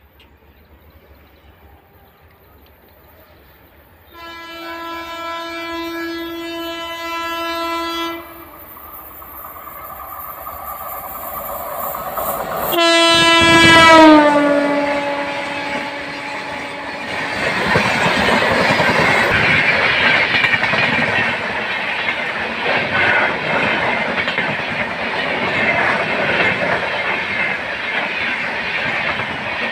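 An Indian Railways WAP-7 electric locomotive approaching and passing at speed. It gives one long, steady horn blast, then a second, louder blast about thirteen seconds in that drops in pitch as the engine goes by. The rushing rumble and clickety-clack of the passenger coaches rolling past follows.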